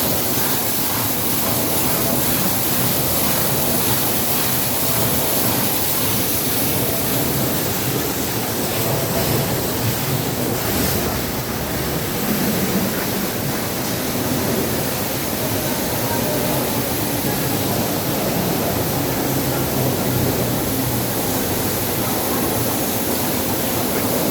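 Ginger washing machine running, with water rushing and spraying through it in a steady, even noise.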